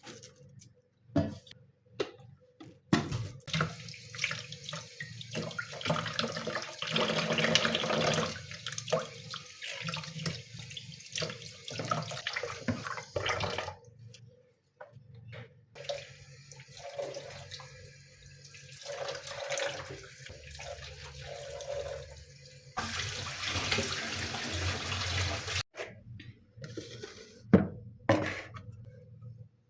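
Water running from a kitchen tap into a sink, the stream splashing and changing as it runs. It is turned off and on a few times and stops suddenly near the end.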